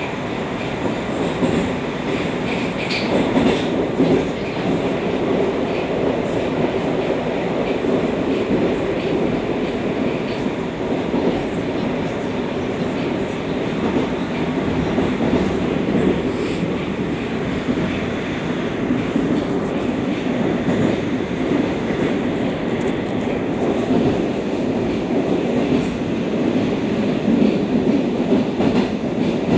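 Metro train of the 81-760/761 'Oka' type running at speed through a tunnel, heard from inside the car: a steady rumble of wheels on rail and running gear.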